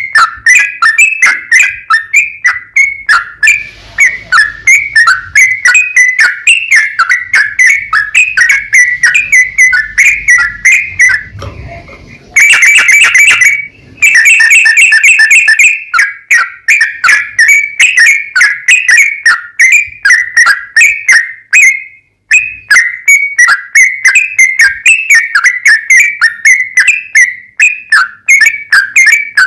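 Yellow-vented bulbul (trucukan) singing a long, unbroken run of rapid, wavering whistled notes, the fast 'ropel' style of a bird in full song. About halfway through, the notes run together into a louder, denser burst for a few seconds.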